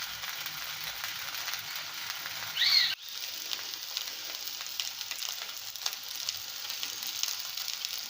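Paneer patties shallow-frying in a little oil on a nonstick tawa: a steady sizzle with fine crackles. A short high squeak about two and a half seconds in, and the sound drops out for an instant just after.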